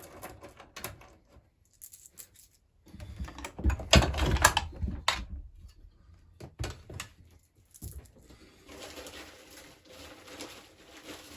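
Clicks, knocks and clatter of a Husqvarna 346XP chainsaw being taken apart by hand, loudest about four seconds in.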